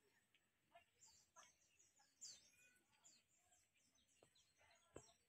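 Near silence with faint bird chirps: short, high falling notes, several a second. A single faint click about five seconds in.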